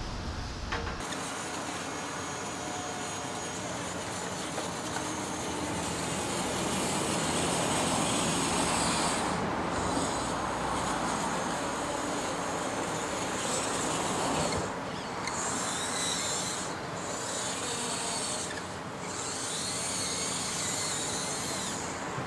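A radio-controlled model excavator working: small electric motors running unevenly, with scraping and rubbing, and the high-pitched motor sound dropping out briefly several times.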